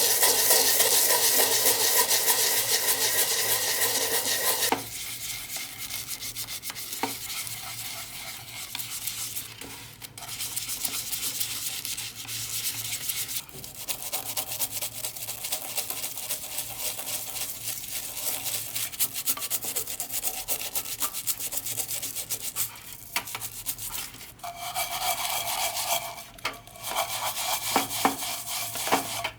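Brass being scrubbed and polished by abrasion: a dense, scratchy rubbing in several stretches that change abruptly.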